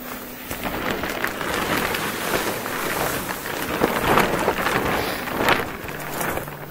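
Crackling, rustling handling noise as something is turned over, with many small clicks and a few louder crackles in the middle.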